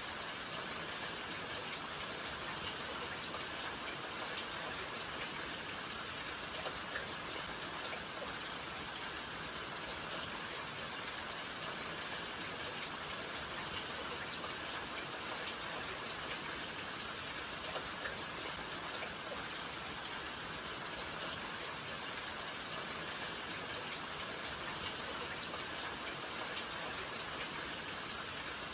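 Steady rainfall: an even hiss of rain with scattered individual drops ticking on surfaces.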